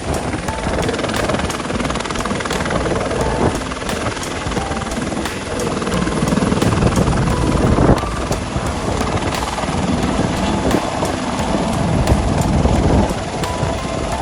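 Helicopter running steadily, its rotor noise carrying an even, rapid beat of blade chop.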